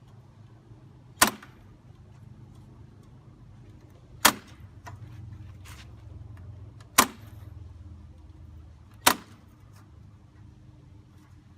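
Four sharp single knocks, two to three seconds apart, each with a brief tail.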